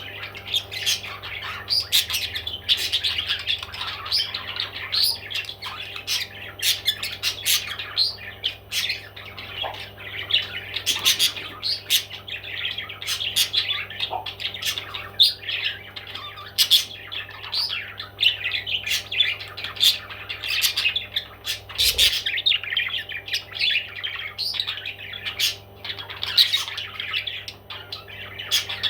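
Parrots squawking and chattering without pause, many short calls overlapping into a dense stream with sharp clicks among them, over a steady low hum.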